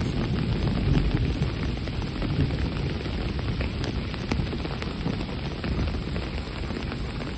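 Steady rain, a constant hiss with scattered drop ticks, over an irregular low rumble.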